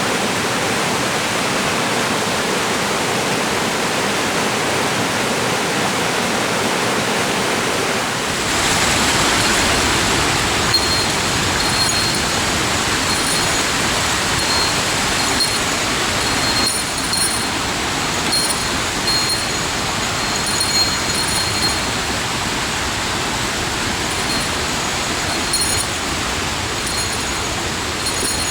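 Rushing water of a mountain gorge stream and its falls, a steady hiss that grows fuller and deeper about eight seconds in.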